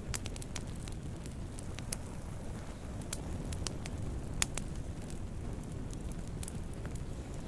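Wood campfire burning with a steady low rumble of flames and irregular sharp crackles and pops, the loudest pop about four and a half seconds in.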